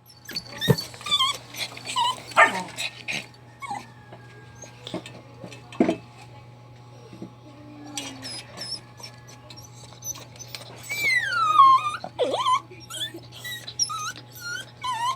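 A dog crying: high whines and whimpers that fall in pitch, with short yelps between them and a long falling whine near the end.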